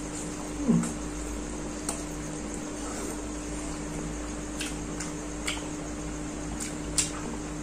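Close-up mouth sounds of a person chewing a mouthful of fried egg, with a few sharp clicks, likely wooden chopsticks tapping, over a steady low hum.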